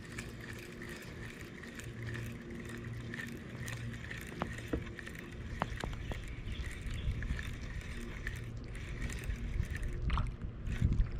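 Ambience from a kayak sitting on a creek: water lapping around the hull under a steady low hum, with a few light knocks and clicks in the middle and a louder low bump near the end.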